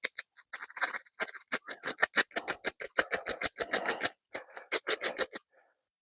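Rapid hand-filing strokes, about five a second, dressing down a burred, chewed-up screw head; the strokes stop about five and a half seconds in.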